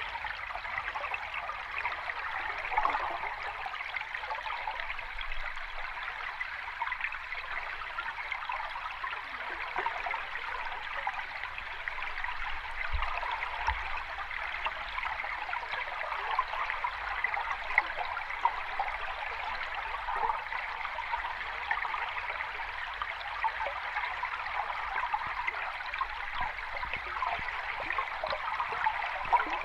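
Steady rush of water with fine trickling and fizzing, even throughout, with no separate wave surges.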